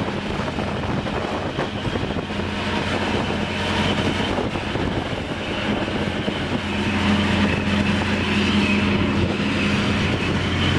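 Duct cleaning truck's diesel engine and vacuum fan running steadily with a low hum. It gets slightly louder about four seconds in and again around seven seconds.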